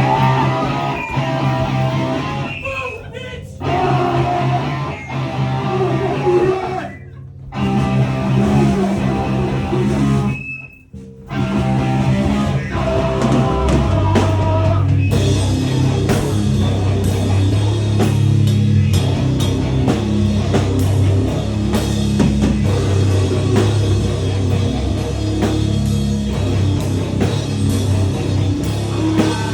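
Live punk band playing loud through an amplified rig, with distorted guitar, bass and drums. It plays in stop-start bursts with two brief breaks in the first half, then about fifteen seconds in the full band locks into steady playing with crashing cymbals.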